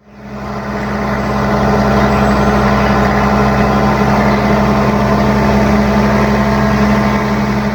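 An engine idling steadily, fading in over about the first second.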